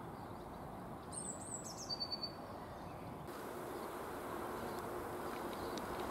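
A small songbird chirping in two short bursts of high, quickly falling notes, about a second in and again around two seconds in. Under it runs a faint steady outdoor background hiss, slightly louder in the second half.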